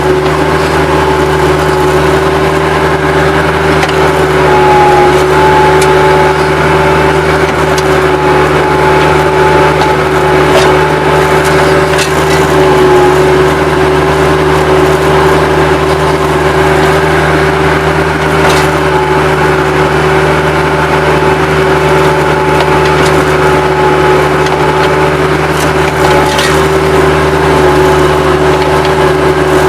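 Bobcat 763 skid-steer loader running steadily at working speed, a steady high whine over its engine hum, with a few sharp knocks.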